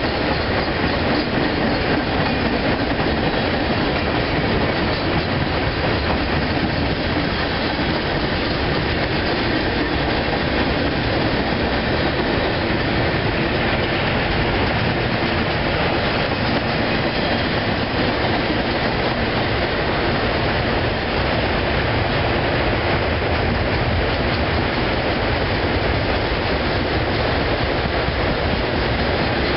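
Freight train cars rolling past close by: a steady, continuous noise of steel wheels on rail.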